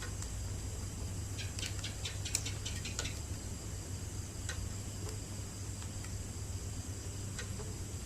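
Wood bonfire crackling: a quick run of sharp pops about a second and a half in, then a few single pops, over a steady low hum.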